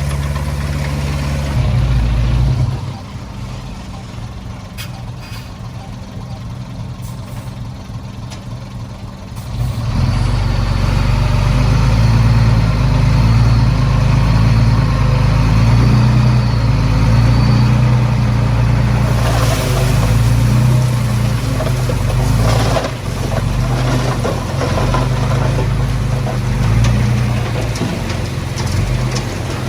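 Heavy diesel engine of earthmoving machinery running under load. It drops to a quieter level about three seconds in, then comes back loud about ten seconds in and runs steadily with shifting engine notes, with a couple of short noisy surges in the second half.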